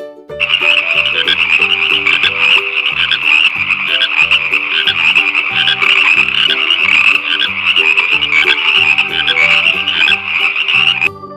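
Frogs croaking continuously, a dense run of calls that starts about half a second in and stops just before the end. Soft background music plays underneath.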